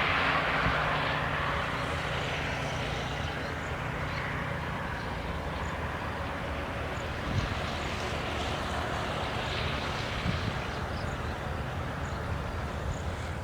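A steady engine drone with a low hum, loudest at the start and easing off after a couple of seconds.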